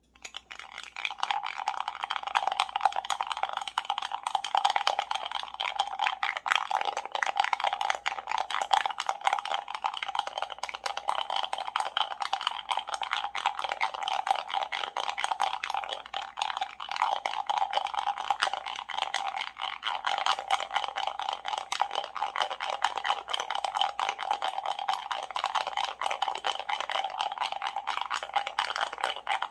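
Ice cubes rattling and clinking against a glass of iced coffee, a dense run of rapid clicks that goes on without a break.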